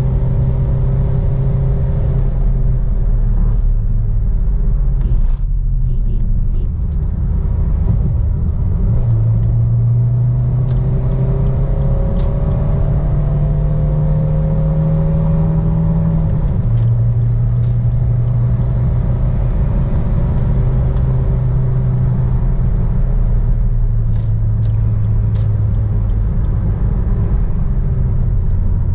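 Suzuki Baleno's 1.3 DDiS four-cylinder turbo-diesel engine running under load at speed, with road and tyre noise. Its steady drone shifts in pitch a few times as engine speed changes.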